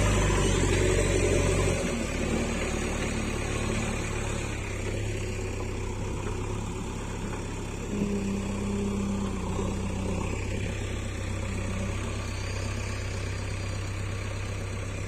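Sonalika DI-50 tractor's diesel engine running steadily, easing down a little about two seconds in.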